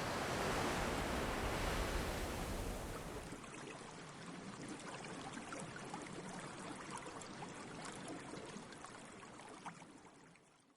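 Sea waves washing on a shore: a wave swells in and breaks, then the water fizzes and crackles as it draws back, fading out near the end.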